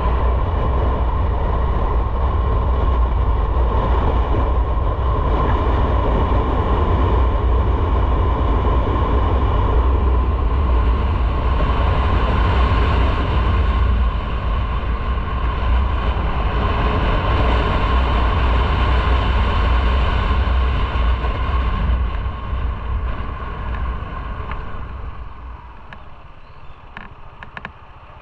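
Motorcycle riding at speed: wind rushing over the microphone with engine and road noise. It dies down over the last few seconds as the bike slows.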